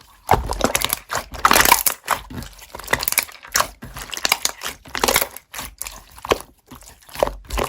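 Slime being squished and pressed by hand, making irregular crackling, crinkling and popping sounds.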